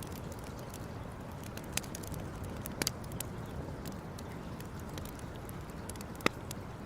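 Campfire burning and crackling: scattered sharp pops over a steady low rush, the loudest pop about six seconds in.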